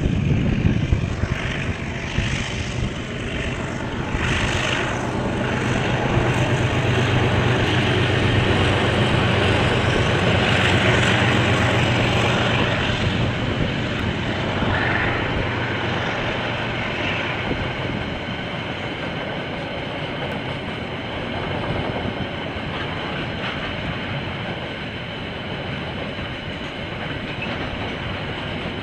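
KiwiRail diesel train passing: a steady engine hum, loudest about ten seconds in, that drops away around eighteen seconds in, leaving the rolling noise of the wheels on the rails.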